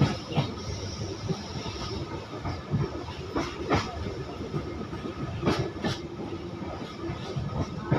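Passenger train coach running on the track: a steady rumble of the wheels with sharp, irregular clickety-clack as they pass over rail joints, some of the clicks coming in quick pairs.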